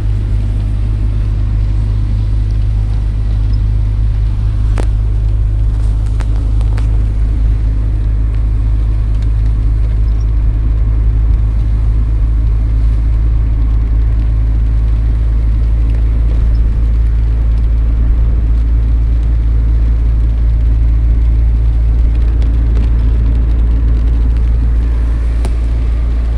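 Steady low rumble of a car, with a few faint clicks.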